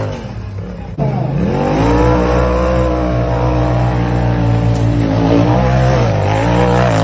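Radio-controlled truck's electric motor revving. Its whine climbs sharply about a second in, holds, then drops away near the end.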